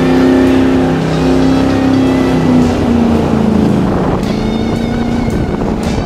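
1966 Plymouth Belvedere's big-block V8 held at high revs through a burnout. The engine note dips about three seconds in as the car rolls forward out of the tyre smoke. Music comes in near the end.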